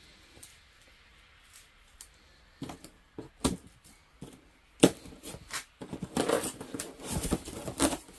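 Things being handled and rummaged through: scattered sharp clicks and knocks, one loud snap about five seconds in, then a dense stretch of rustling and clattering near the end.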